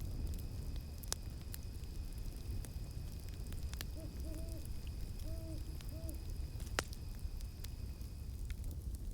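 Campfire crackling, sharp pops scattered over a low steady rumble, while an owl hoots about four times around the middle. A thin steady high insect tone, cicada-like, runs above and stops near the end.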